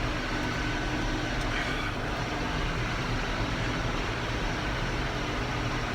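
Tractor and round baler running steadily while baling alfalfa, a constant even machine noise.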